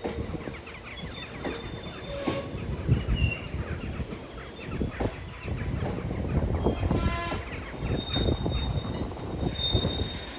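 Train wagons rolling past with a constant rumble and knocking from the wheels. Short, high-pitched wheel squeals come and go throughout.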